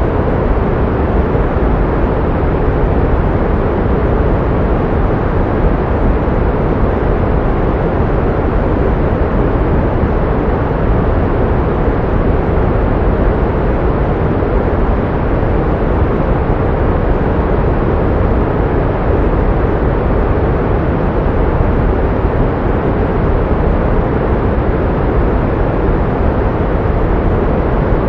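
Steady pink noise: an even, unchanging rush, heavier in the low end and fading toward the top.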